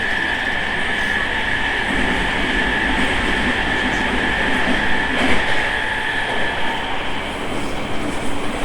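Running sound of a JR East E217 series electric train at speed, heard from inside the car: a steady high whine over wheel-and-rail rumble, with the rumble growing heavier for a few seconds midway.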